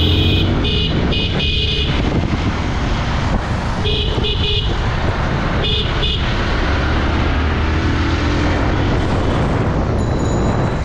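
A vehicle horn beeping in short blasts: three quick toots at the start, two about four seconds in and one about six seconds in. Under them runs the steady noise of a motorbike riding through city traffic, with engine, tyres and wind.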